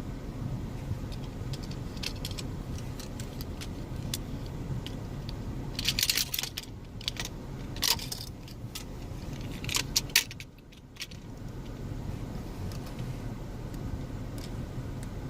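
Toy monster truck being handled and played with: clusters of sharp plastic clicks and rattles about six, eight and ten seconds in, over a steady low hum.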